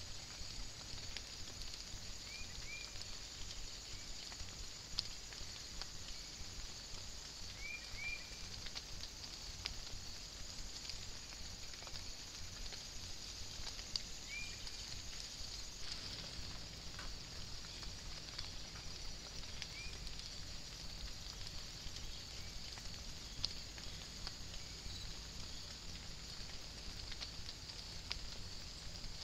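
Light rain in woodland through a trail camera's microphone: a steady high hiss with scattered drip ticks, and a few short high chirps now and then. The background changes slightly about halfway through.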